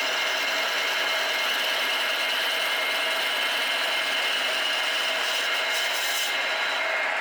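A small power tool running steadily, with a constant whine over a grinding hiss; the highest hiss thins out shortly before the end.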